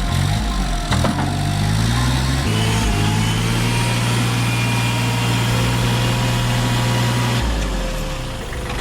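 Tractor engine running, its pitch shifting over the first couple of seconds and then holding steady, with a sharp knock about a second in.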